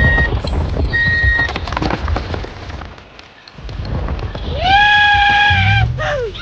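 Vehicle sound effects: two short, high beeps about a second apart over a low engine rumble. Later a long horn tone sounds for about a second, sliding up as it starts and down as it ends.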